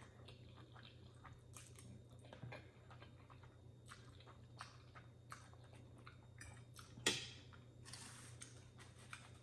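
Faint close-up chewing of a mouthful of noodles: soft wet mouth sounds and small clicks, with one louder sharp click about seven seconds in. A steady low hum sits underneath.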